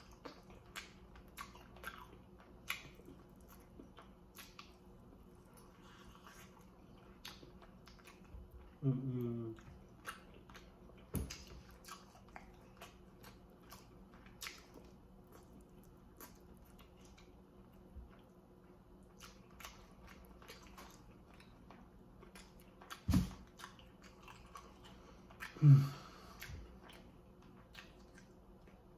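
Close-up chewing and wet mouth clicks of a person eating baked chicken drumsticks, with the meat pulled apart by hand. There are two short hummed vocal sounds, about nine seconds in and near the end, and two dull knocks, about eleven and twenty-three seconds in.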